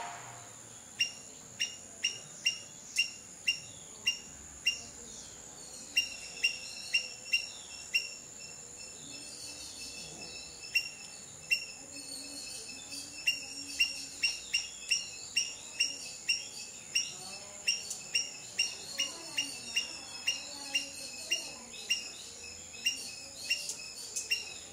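A bird calling with short, high chirps repeated about once or twice a second, with a few seconds' pause in the middle, over a steady high-pitched background drone.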